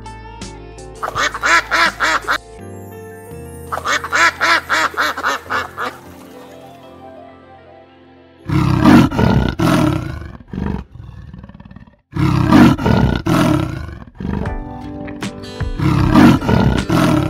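Two runs of fast, repeated quacking calls from a waterfowl over background music, then, from about halfway through, a jaguar's loud, rough roars in several bursts.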